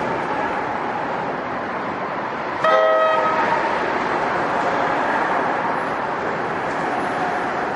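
Steady noise of a train running, with one short toot of a train's multi-note horn about three seconds in.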